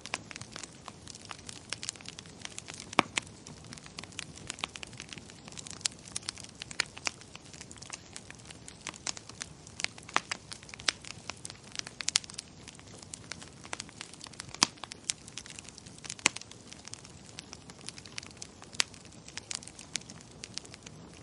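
Wood fire crackling in a fireplace: a soft steady hiss with irregular sharp pops and snaps, several a second, a few of them louder.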